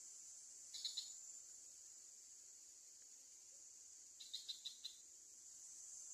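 Faint, steady high-pitched drone of insects such as crickets, with short quick chirps over it: two or three about a second in, and a run of five about four seconds in.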